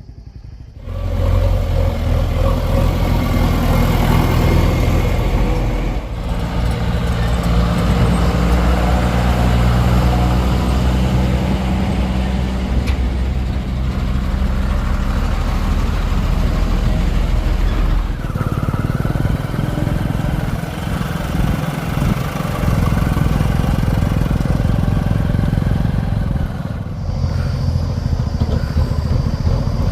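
Heavy diesel machinery engine running steadily and loudly, starting about a second in, its tone shifting abruptly several times.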